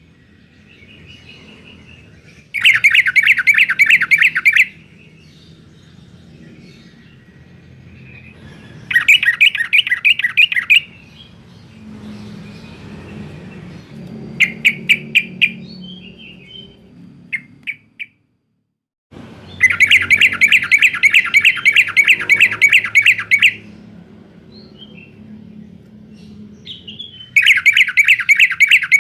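Sooty-headed bulbul (trucukan) singing in the 'garuda' style, in loud bouts of rapidly repeated chattering notes. There are five bouts, the longest about four seconds just after halfway, with short pauses between them.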